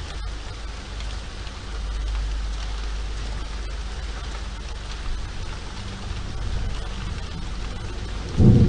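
Steady rain falling, with a low rumble underneath; a loud low crack of thunder breaks in near the end.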